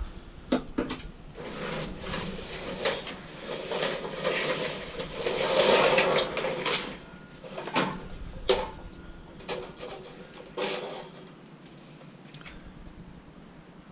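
Scrap metal being handled by hand: scattered knocks and clanks, with a longer stretch of rattling and scraping in the middle, tailing off to quieter handling near the end.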